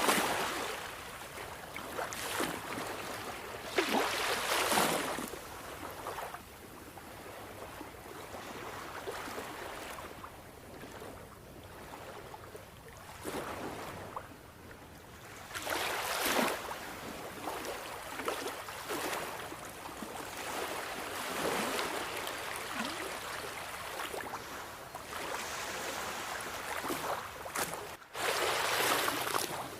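Sea waves washing onto a shore: a steady wash of surf rising into louder surges as waves break, several seconds apart. A very brief dropout comes just before a loud surge near the end.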